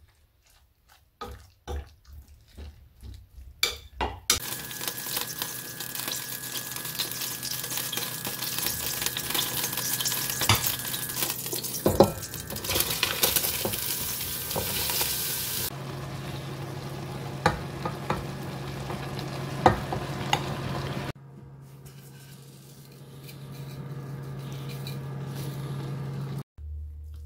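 A spoon clicks and scrapes through seasoned fish cake in a bowl. Then loud sizzling of fish cake and vegetables frying in a hot stainless steel pot starts, with sharp clinks and scrapes of the stirring utensil. The sizzle drops back to a quieter frying sound over a steady low hum.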